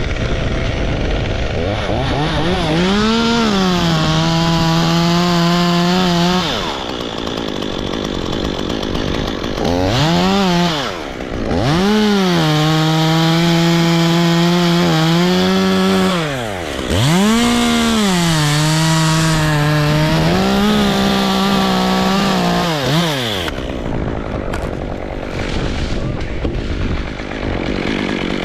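Two-stroke chainsaw cutting wood in four bursts. Each time the revs rise, hold fairly steady through the cut, then drop away, with short pauses between. A steady rushing noise runs underneath.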